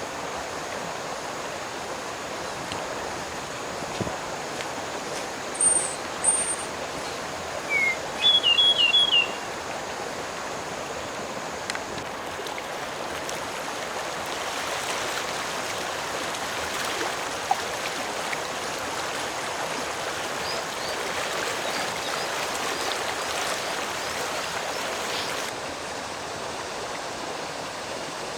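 Stream water flowing steadily. A small bird calls a few short chirps about six to nine seconds in, and the rush of water swells for a while midway, then drops off suddenly.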